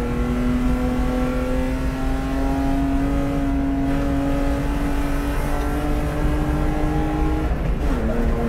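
BMW E36 320i race car's 2.0-litre straight-six heard from inside the cabin, pulling hard under load with the revs climbing slowly and steadily. The revs drop sharply near the end.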